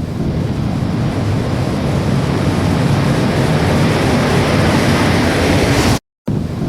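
Steady rushing roar of an airliner in flight, like jet engine and wind noise heard in the cabin. It drops out completely for a moment near the end, then resumes.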